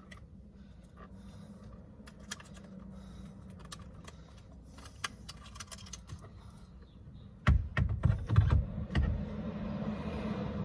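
Light plastic clicks and rattles from steering-wheel wiring and trim being handled, with a cluster of louder knocks and bumps about three-quarters of the way through.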